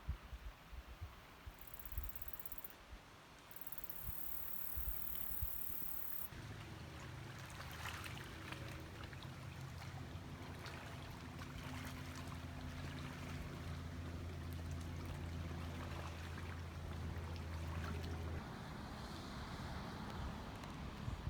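A motor running steadily with a low hum, starting about six seconds in and fading out near the end, over a rushing noise; a few low thumps come before it.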